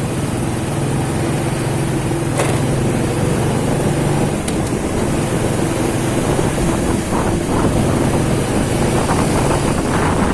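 Motorcycle engine running while riding at a steady pace, its note even for the first few seconds and less steady after that, over road and wind noise.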